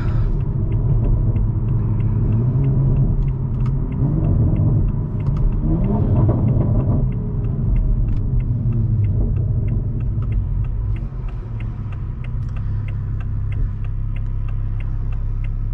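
2021 Toyota Supra's exhaust, with a muffler delete and aftermarket downpipe, giving a deep rumble while driving. Its pitch rises twice as the car accelerates in the first several seconds, then it settles to a steadier cruise. A light regular ticking runs underneath.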